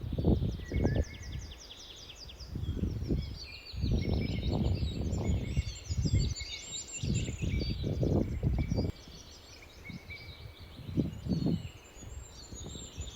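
Small birds chirping and singing in quick repeated notes, over irregular gusts of wind buffeting the microphone, which come and go every second or two and are the loudest part.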